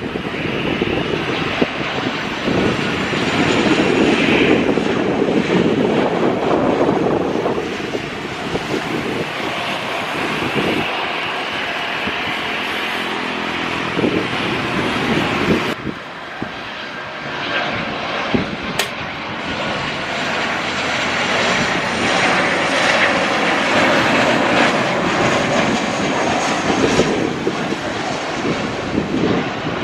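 Airliner engines running loud and steady, a dense rushing roar with a brief drop in level about halfway through.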